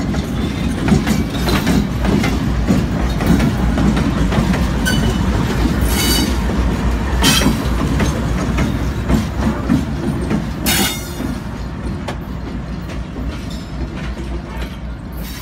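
Union Pacific diesel-electric locomotives rolling slowly past at close range: a deep, steady engine rumble with wheels clicking and clanking over the rail, and a few brief high screeches from the wheels. The rumble eases in the last few seconds as the locomotives move away.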